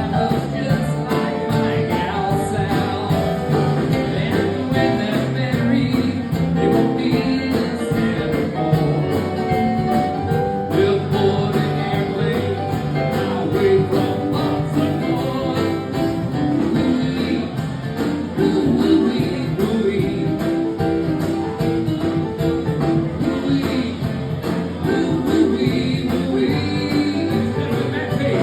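Acoustic guitar strummed steadily with a voice singing, a country-folk song played live.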